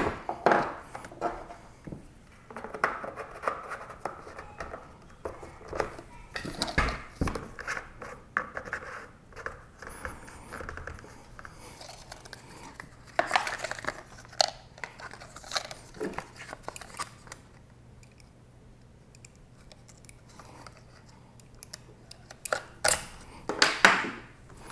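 Hands handling a chainsaw and its packaging: irregular clicks, scrapes and plastic rustling, with a quieter stretch in the latter half and a louder cluster of knocks near the end.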